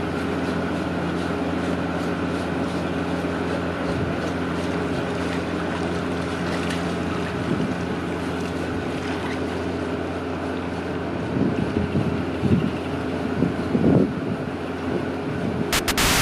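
A steady motor drone with wind noise on the microphone. A few louder, rougher swells come near the end.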